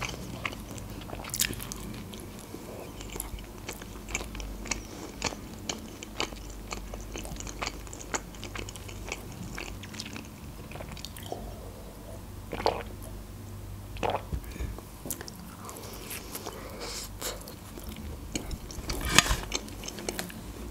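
Close-miked chewing and biting of homemade pizza, with crunchy bites of crust and wet mouth clicks; a few louder crunches about the middle and near the end.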